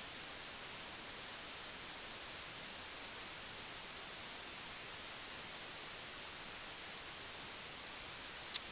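Steady hiss, even throughout, with two short faint ticks just before the end.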